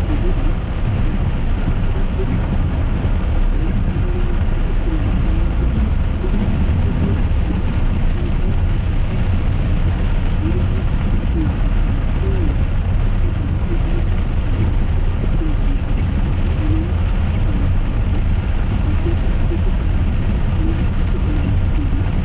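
Steady low rumble of a car driving, heard from inside the cabin: engine and tyre noise on wet roads.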